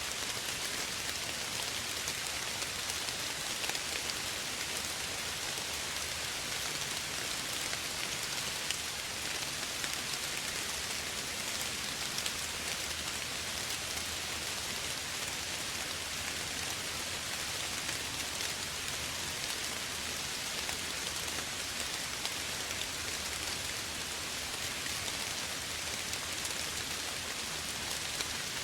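Steady, soft rain falling, a dense patter of drops on surfaces.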